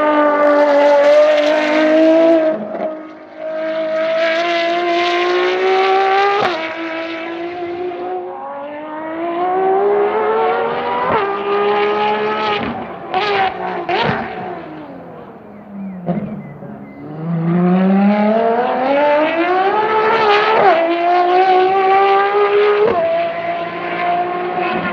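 Ferrari FXX K's V12 engine accelerating hard through the gears, its pitch climbing and then dropping sharply at each upshift. Around the middle it slows as the pitch falls, with short sharp blips, then it climbs through the gears again.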